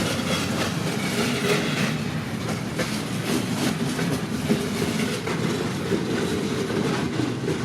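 Railroad cars rolling past at a steady pace, their steel wheels clicking over rail joints with a continuous rail noise underneath.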